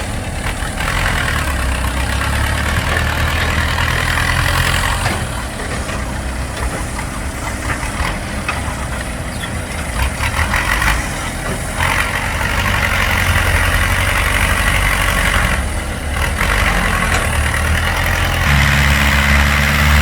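Heavy diesel engine running steadily under changing load, growing louder and deeper near the end.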